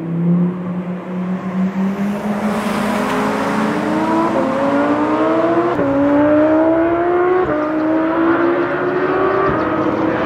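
Lamborghini Huracán Performante's naturally aspirated V10 under hard acceleration on its stock exhaust. The engine note climbs steadily in pitch and drops back sharply at quick upshifts about every two seconds.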